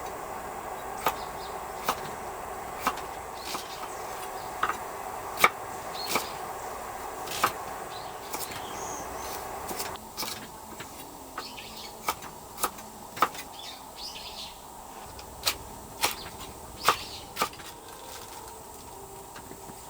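Irregular sharp clicks and knocks, about fifteen over the stretch, with faint bird chirps in the background and a steady low hum that drops away about halfway.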